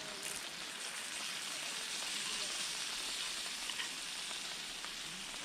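Steady hiss of rain falling, with a few faint ticks.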